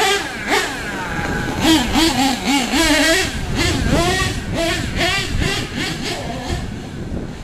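HPI Savage SS nitro RC truck's small glow-fuel engine running at high revs, its pitch rising and falling quickly as the throttle is worked.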